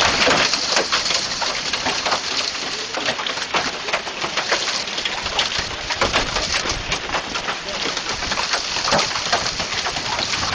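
Large hailstones, some bigger than golf balls, pelting down in a dense, continuous rattle of hard impacts.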